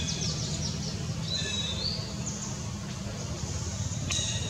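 Small birds chirping, with short high calls and a rising whistle, over a steady low hum. There is a sharp click about four seconds in.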